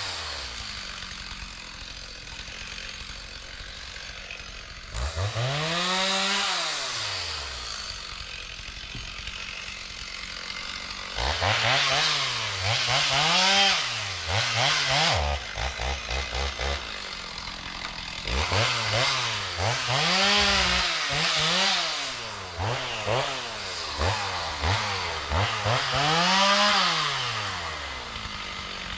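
Chainsaw engine idling and revving up and down: one long rev about five seconds in, then a run of shorter revs from about eleven seconds on, with spells of idle between.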